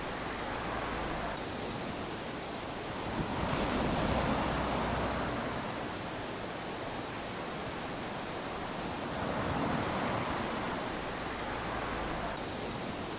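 Small waves lapping onto a sandy beach, each one a swell of rushing hiss, about every five to six seconds.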